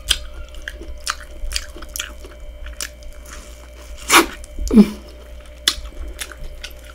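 Close-miked wet chewing and mouth clicks from eating sauced corn on the cob, in irregular small smacks, with a louder bite about four seconds in.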